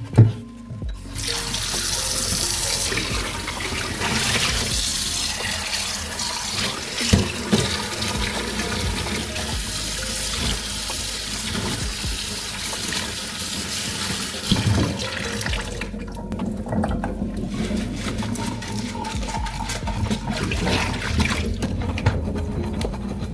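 Kitchen tap running into the sink, with a few knocks of dishes being handled. The flow eases briefly about two-thirds of the way through, then runs again.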